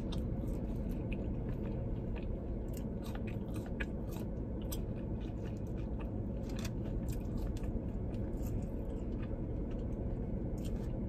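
Close-miked chewing of fries: soft crunches and wet mouth clicks scattered throughout, over a steady low hum.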